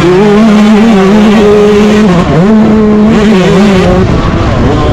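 Yamaha YZ125 two-stroke motocross engine racing at high revs, its pitch dropping sharply about two seconds in as the throttle is chopped, then climbing back, with another dip near the end.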